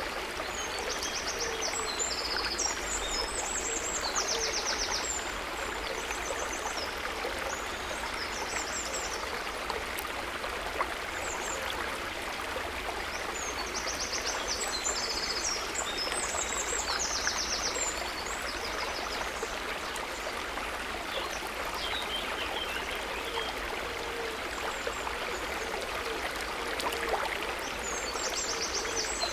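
River water running steadily. Small birds sing short, rapid trilled phrases over it in three spells: near the start, about midway and at the end.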